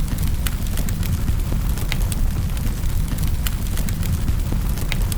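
Wood fire in a fireplace burning with a steady low rumble, crackling and popping: a sharp snap about every second or so, with fainter ticks between.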